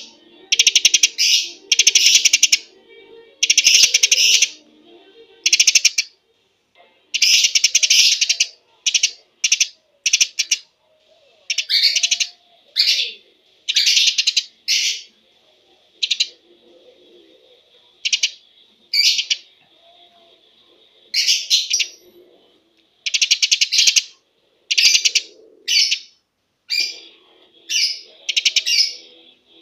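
Eurasian tree sparrow chirping fast, in tight bursts of rapid chirps repeated every second or so with short pauses between, a 'gacor' bout of the kind played as a lure to set other birds singing. A faint steady high tone sits between the bursts in the second half.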